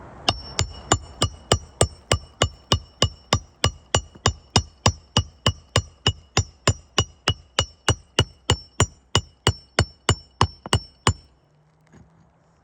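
Hammer striking a metal roofing tool, the snake, on a shingle roof: about three dozen evenly spaced blows, roughly three a second, each with a bright metallic ring. The blows stop about a second before the end.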